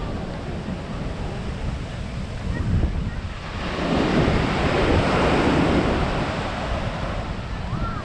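Sea waves washing onto a sandy beach, one swelling up about four seconds in, with wind rumbling on the microphone.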